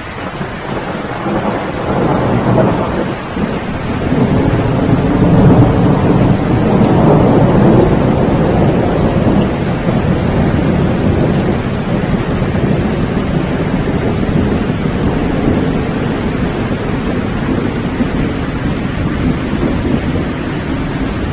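Rolling thunder over steady rain: a low rumble builds over the first few seconds, peaks, then slowly dies away while the rain keeps falling.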